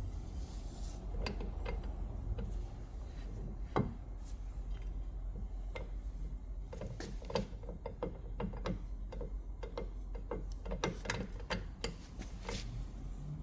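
Tools and small metal parts being handled at a workbench: irregular clicks and knocks, coming faster and closer together in the second half, over a steady low hum.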